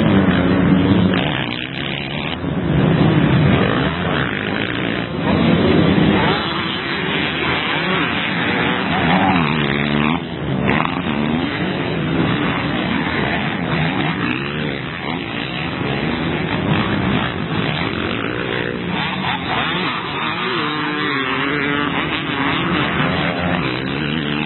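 Motocross bikes racing, engines revving up and down through the throttle as they pass, with louder swells as bikes come close.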